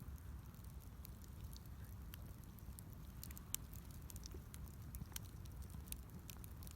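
Wood fire crackling: scattered sharp pops and ticks at irregular intervals, one louder pop about three and a half seconds in, over a low rumble.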